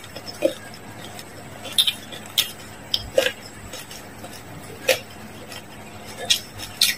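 Close-miked chewing of noodles: sharp wet mouth clicks and smacks at irregular intervals, several times through.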